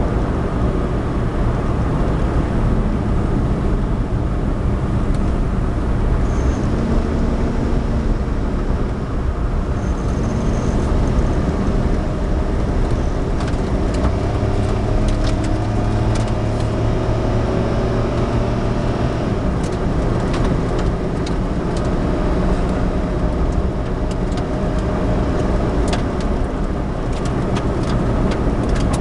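Suzuki Alto 4WD kei car driving on a snowy, icy road: steady engine and road noise, with faint engine tones that slowly shift in pitch and scattered light clicks.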